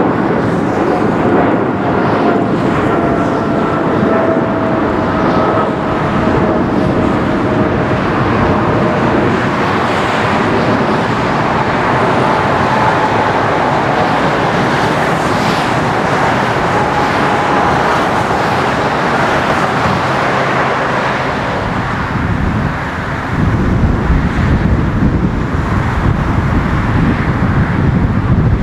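A Boeing 777F freighter's GE90 jet engines run loud as it passes, with a steady roar and a faint whine falling slowly in pitch. About three-quarters of the way through, the sound changes abruptly to another jet airliner's deeper engine rumble.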